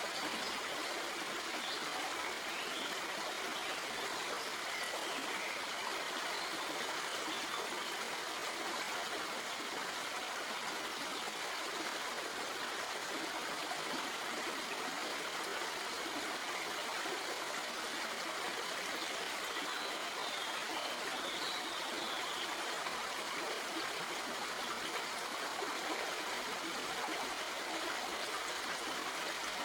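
Shallow stream flowing over rocks, a steady even rush with some trickling.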